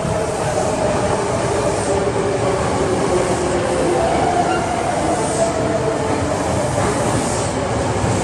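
Hankyu 8300 series electric train arriving at an underground station platform, its cars rolling past and slowing to a stop, with a steady rumble of wheels on rail and a faint hum over it.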